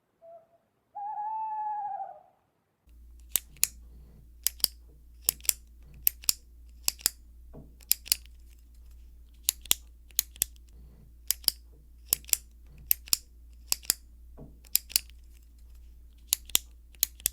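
A hooting owl calls twice in the first two seconds. Then a pair of scissors snips over and over: sharp metallic clicks, mostly in close pairs about once a second, over a low hum.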